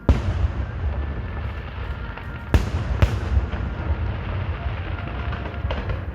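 Aerial fireworks bursting: a loud burst right at the start, then a continuous low rumble of shells going off with crackling. Two sharp bangs come about two and a half and three seconds in.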